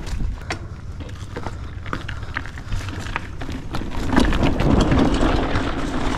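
Hardtail mountain bike rolling over a rough, bumpy dirt trail: low rumble of the tyres with a rapid, irregular run of clicks and rattles as the bike and its loaded rear rack and trunk bag jolt over bumps. A louder rushing noise comes in about four seconds in.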